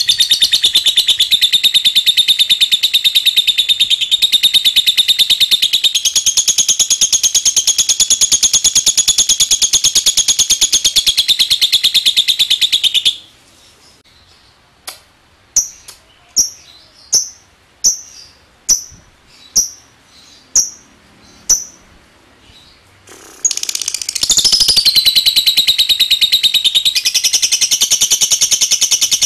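Lovebird singing its long 'ngekek' song: a rapid, unbroken chattering trill for about thirteen seconds. It breaks off into about nine short, sharp single chirps spaced a little under a second apart, then the long chattering trill starts again a few seconds before the end.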